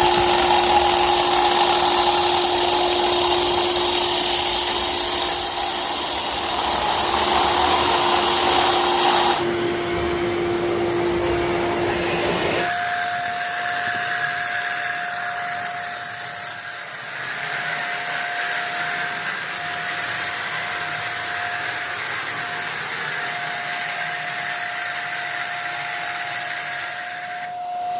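An electric power tool's motor running steadily with a constant whine. Its pitch jumps higher twice, once about a third of the way in and again a little later, as the noise changes.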